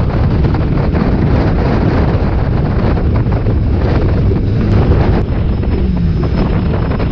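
Mk4 Ford Fiesta stock car's engine running while the car drives on, heard from inside its stripped-out cabin with wind noise and road rumble; the engine note wavers briefly near the end.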